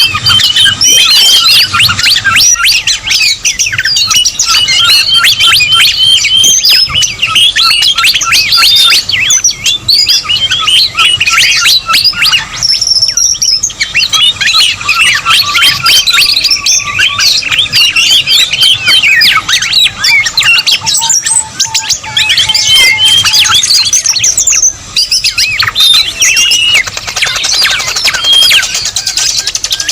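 Dense, noisy chorus of many birds chirping, whistling and squawking over one another without a break: a mixed bird-lure call recording of the kind used to draw in whistling thrushes and whistlers.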